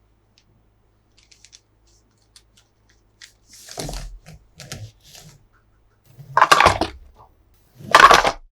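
Toy packaging being handled during an unboxing: a few faint clicks, then a series of short noisy bursts about a second apart that grow louder, the loudest two near the end.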